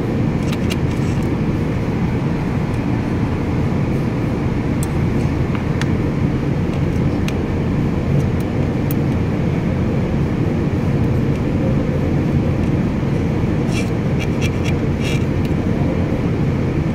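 Steady low rumble of background road traffic, with a few faint light clicks and taps.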